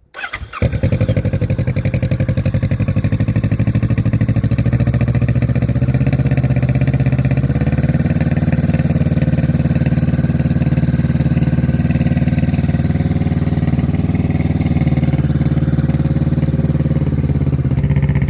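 Kawasaki Vulcan S 649 cc parallel-twin engine starting through an aftermarket Street Series GP Musarri exhaust. It catches about half a second in and then idles steadily.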